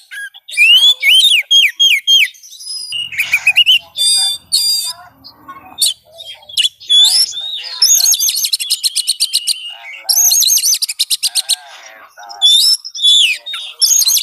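Oriental magpie-robin (kacer) song: a loud, varied run of clear rising and falling whistles, fast rattling trills and harsher chattering notes, broken by short pauses. It is a stimulus song used to prompt a caged magpie-robin to answer.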